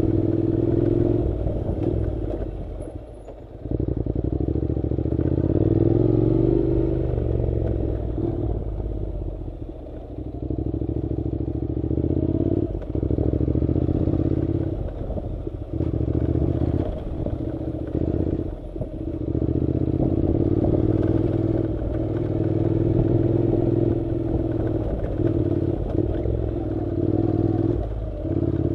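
Honda NC700 motorcycle's parallel-twin engine running while riding a dirt road, its pitch rising and falling with the throttle. The engine drops away briefly about three seconds in and again around ten seconds.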